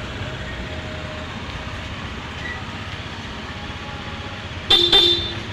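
A vehicle horn beeps twice in quick succession near the end, two short pitched blasts over a steady background of traffic noise.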